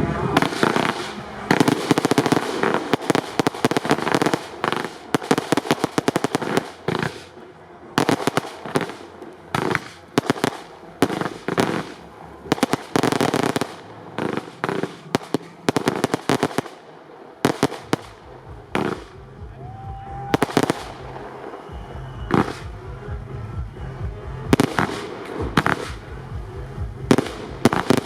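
Fireworks display: rapid volleys of sharp shots and crackling reports fired in quick succession. The volleys come thickest over the first several seconds, then in shorter clusters with gaps between them.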